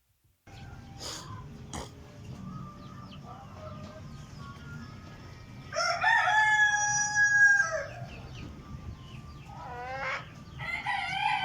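A rooster crowing twice: one long crow about six seconds in, the loudest sound, and a second crow starting near the end, over steady low background noise.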